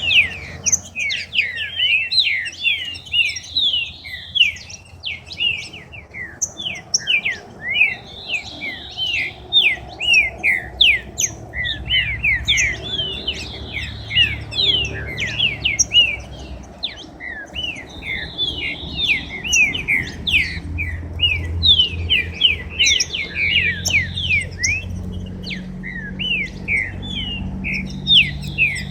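Several songbirds chirping and singing continuously in a dense stream of quick, overlapping falling notes, just after their bath.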